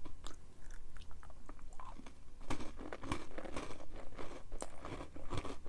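Close-up chewing of a crunchy granola cup with almond butter and chopped almonds: irregular crunching that becomes denser about halfway through.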